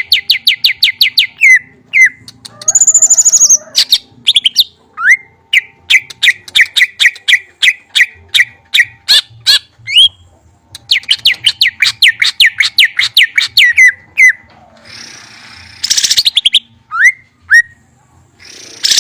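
A caged songbird singing in fast trills of rapidly repeated chirps, broken by a high rattling phrase and short rising call notes. About three-quarters of the way through a brief hissing noise sounds.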